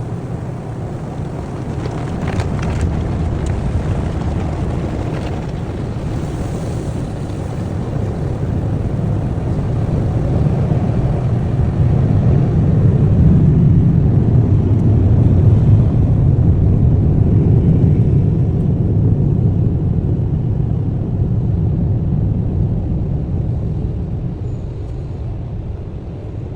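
Automatic tunnel car wash heard from inside the car's cabin: a steady low rumble of the wash equipment working over the car, swelling louder through the middle and easing off near the end.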